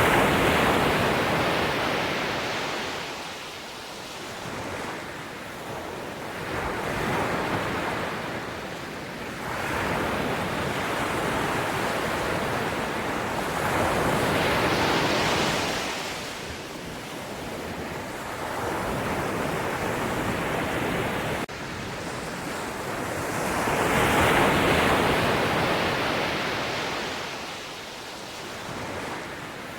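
Ocean waves breaking and washing up on the shore, swelling and fading in long surges several seconds apart.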